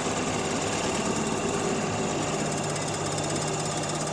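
3 hp Evinrude two-stroke outboard motor running steadily at a fast, even putter.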